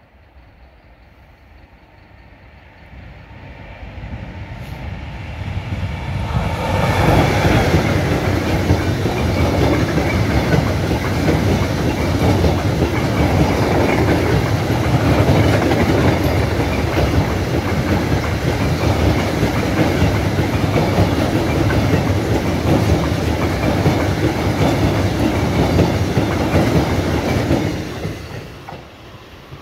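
Freight train of double-deck car-transporter wagons passing close by: the sound builds over the first several seconds, holds as a loud steady rumble of wheels on rail for about twenty seconds, then falls away quickly near the end.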